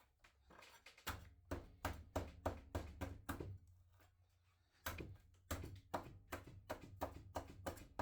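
Irregular light taps and knocks, about three a second, in two runs broken by a short pause near the middle, with a low rumble under them.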